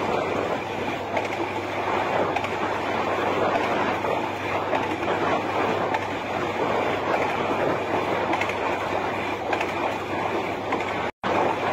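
Train running along the track, a steady running noise that drops out for a moment near the end.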